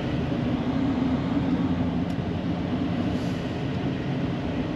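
Ford pickup truck running steadily under load, a constant low drone of engine and drivetrain heard from inside the cab.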